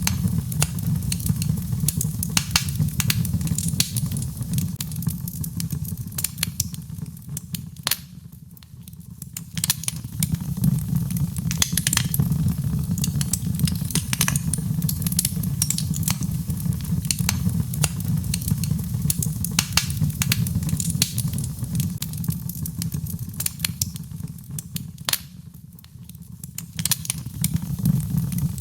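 Birchwood fire burning in a fireplace: dense, irregular crackling and snapping pops over a steady low rumble of the flames. The crackling eases off briefly twice, then picks up again.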